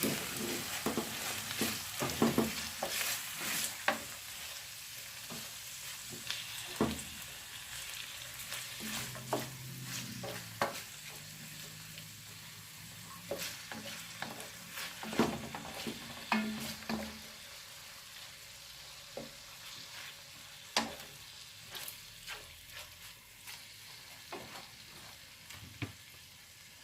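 Food frying and sizzling in a hot pan while it is stirred, with scattered sharp clicks and scrapes of the utensil against the pan. The sizzling gradually dies down.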